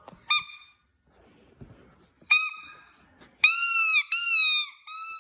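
Squeaker in a KONG Jumbler Ball dog toy squeaking as it is squeezed. Two short squeaks come first, then three longer, louder ones in quick succession near the end, each sagging in pitch as it fades.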